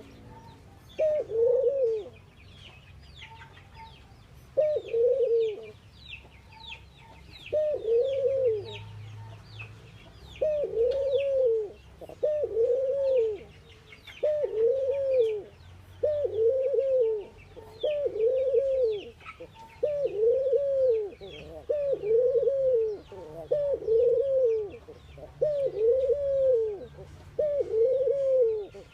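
Ring-necked dove cooing, one soft arched coo after another: a few spaced-out coos at first, then a steady run of about one per second. Small birds chirp with quick high notes behind it.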